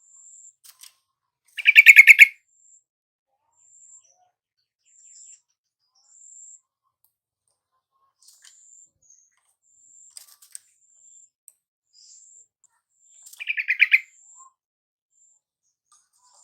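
Yellow-vented bulbul (trucukan) calling: two short, loud bubbling bursts of fast repeated notes, one about a second and a half in and one near the end, over faint high chirps that repeat every second or so.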